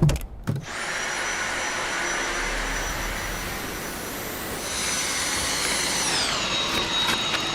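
A few clicks, then a cordless stick vacuum cleaner's motor starts and runs: a steady rush of suction with a high motor whine. About six seconds in the whine glides down to a lower pitch.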